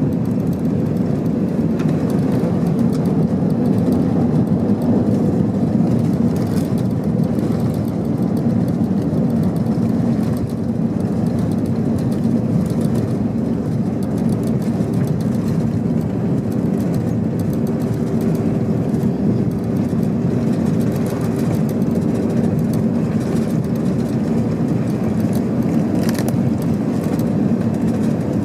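Airbus A321-200 cabin noise heard from a passenger seat: a steady, loud rumble of engines and airflow. A faint steady hum comes in around the middle and fades again.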